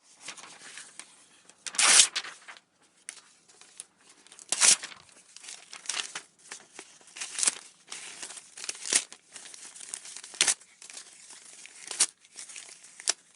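Crumpling and crinkling sound effect: material being crushed and worked in the hands, a continuous crackle with louder crunches about every one and a half seconds. It starts and stops abruptly.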